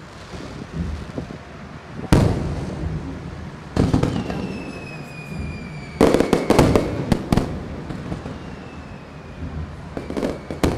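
Aerial firework shells bursting: a boom about two seconds in, another near four seconds, a quick cluster of cracks from about six to seven and a half seconds, and more cracks near the end. A faint falling whistle runs between the bursts in the middle.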